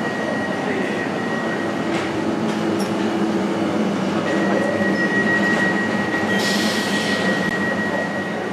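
Electric passenger train running, with a steady high whine and a low motor hum over the rail noise. A short burst of hiss comes about six and a half seconds in.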